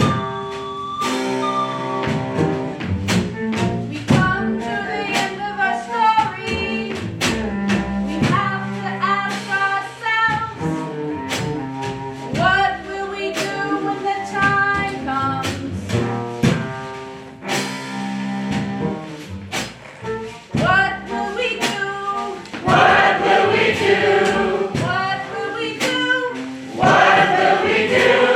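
Music with singing and a choir, over instruments with percussive strikes; near the end many voices sing together more loudly.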